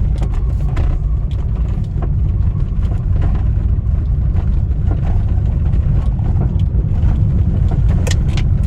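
Hyundai HB20 driving over cobblestones, heard from inside the cabin: a steady low road rumble with scattered sharp knocks and rattles from the car, several close together near the end.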